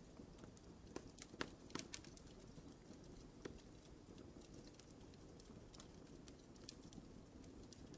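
Wood fire crackling in a fireplace, quietly: scattered sharp pops and snaps, several close together in the first two seconds and sparser after, over a low steady rush of burning.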